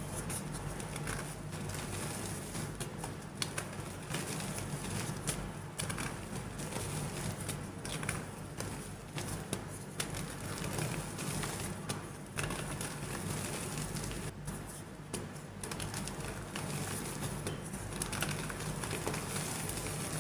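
Soft gym chalk crumbling and being crushed, a dense, continuous run of small cracks and crunches, over a steady low hum.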